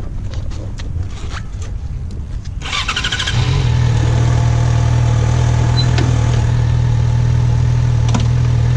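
Yamaha FZ6R's 600 cc inline-four started on the electric starter: a brief whir of cranking about two and a half seconds in, then the engine catches and idles steadily. Before that, wind rumbles on the microphone.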